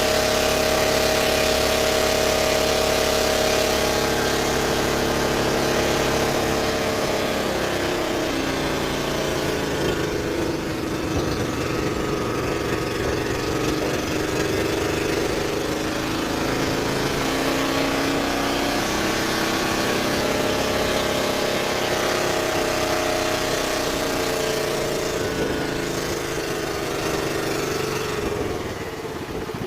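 Boat engine running, steady at first, then its pitch rising and falling unevenly from about seven seconds in. It drops back in level near the end.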